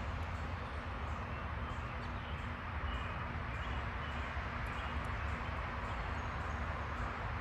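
Steady background hiss and low hum, like distant traffic or machinery, with a few faint, short bird chirps.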